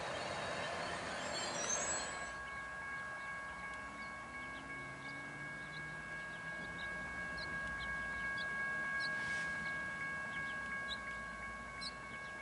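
Amtrak passenger train rolling past with wheel and rail noise and a brief high wheel squeal, cut off suddenly about two seconds in. It is followed by a steady, chime-like chord of high tones over a faint low locomotive rumble, with scattered short chirps.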